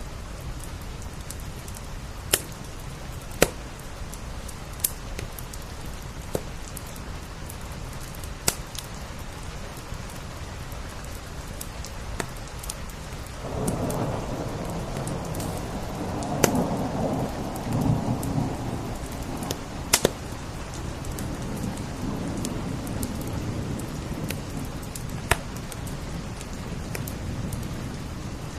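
Steady rain with sharp, scattered pops of a crackling wood fire. About halfway through, a low rumble of thunder swells up and rolls on for several seconds before fading back into the rain.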